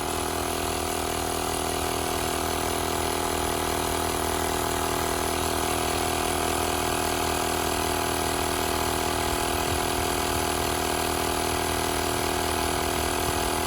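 Tower Top portable tire inflator running steadily while pumping up a truck tire at about 26 psi, a constant mechanical drone with a steady pitch.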